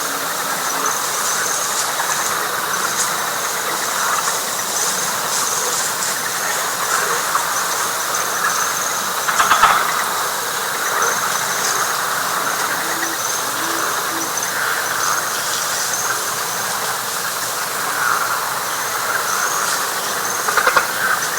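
Night chorus of frogs and insects: a dense steady frog chorus with a high, pulsing insect trill above it. A brief louder call stands out about nine and a half seconds in and again near the end.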